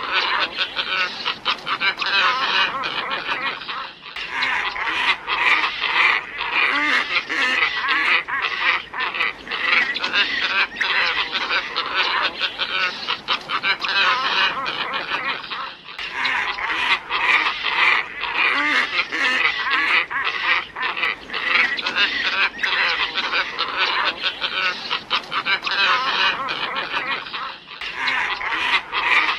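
A flock of glossy ibises calling densely and without pause, a looped lure recording for attracting the birds, with a brief cut about every twelve seconds where the loop restarts.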